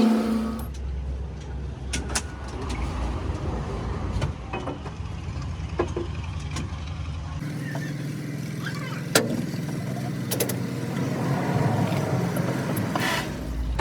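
A motor vehicle engine running steadily, its low note changing about halfway through, with scattered short metallic knocks and clicks.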